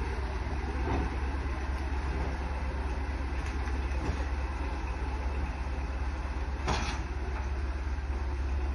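Vehicle engine running steadily: a constant low rumble with road noise, and a brief light knock about two-thirds of the way through.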